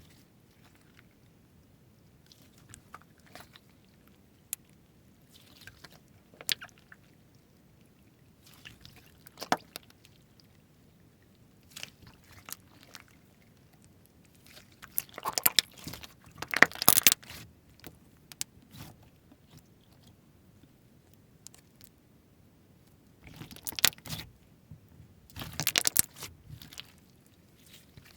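Slime being handled: scattered sharp clicks and crackling pops, building into dense crunchy bursts about halfway through and again near the end.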